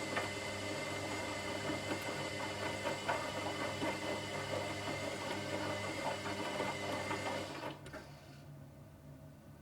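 Washing machine motor turning the drum, a steady whine with light clicks and rattles, which cuts off about eight seconds in, leaving a low hum.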